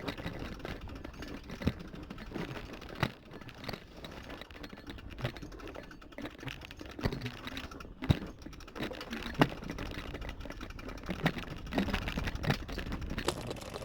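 Mountain bike clattering downhill over a rough trail: irregular clicks and rattles from the bike, with a low rumble of tyres on the ground and a few sharper knocks as it hits bumps.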